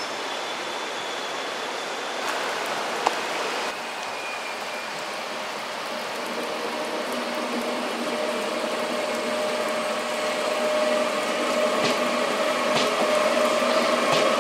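Steady rain hiss with an NS VIRM double-deck electric train rolling past. In the second half a humming tone from the train rises and grows louder.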